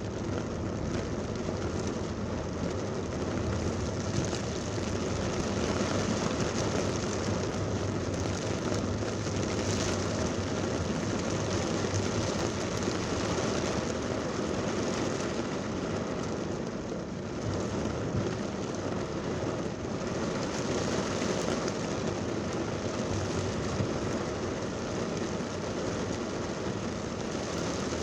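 Heavy rain pouring steadily, mixed with the continuous rush of traffic on a wet road.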